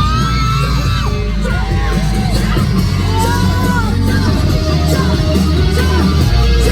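Live concert music with a steady heavy low end, under a large crowd yelling and whooping.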